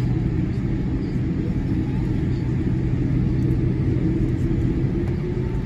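Cabin noise of a Boeing 787-8 airliner taxiing: a steady low rumble with a constant low hum running through it.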